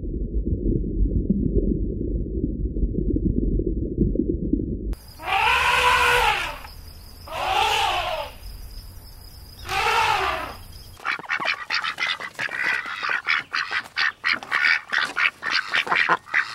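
Muffled low underwater noise for about five seconds. Then an elephant trumpets three times, each call rising and then falling, about two seconds apart. From about eleven seconds a flock of domestic white ducks quacks rapidly and without a break.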